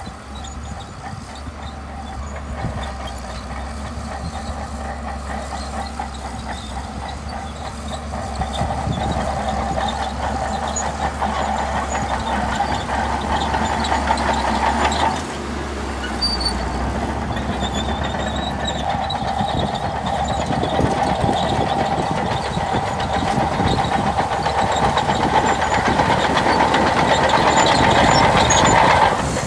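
Shantui DH17C2 bulldozer working: its diesel engine running under load with the clatter of its steel tracks. The sound builds gradually, drops abruptly about halfway, then builds again.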